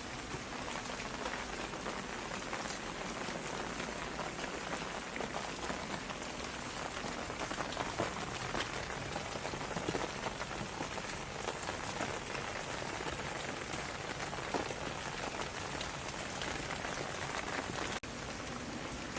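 Steady rain falling, with many separate drops ticking on a surface over an even hiss. A brief drop-out near the end, where the recording jumps.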